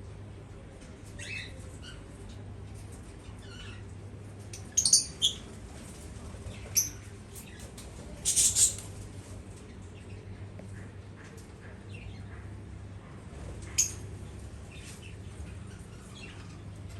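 Aviary birds calling: scattered high chirps and a few short, loud squawks, over a steady low hum.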